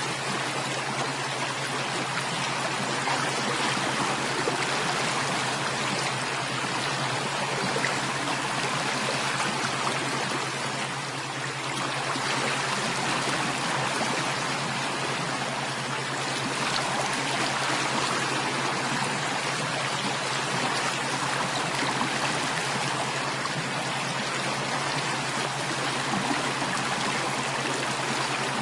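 Flowing stream water, a steady, even rush that keeps on without a break.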